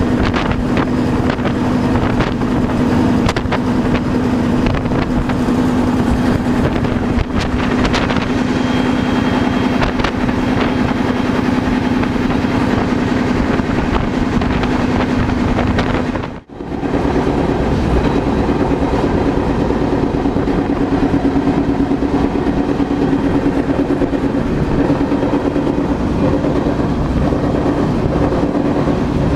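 Freight train rolling along, heard from aboard: a steady rumble of wheels on rail with a low hum and wind buffeting the microphone. The sound drops out briefly partway through and then carries on.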